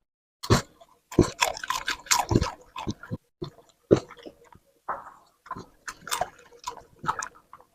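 A dog eating a bowl of raw meat and other wet food: irregular wet chewing, smacking and slurping, busiest in the first few seconds and then sparser.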